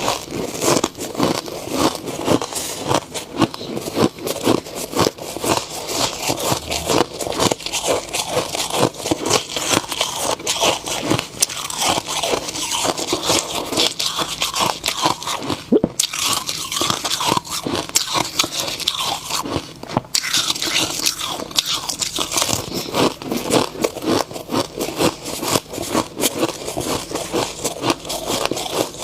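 A person biting and chewing snow ice: a dense, continuous run of crisp crunches with brief pauses a couple of times.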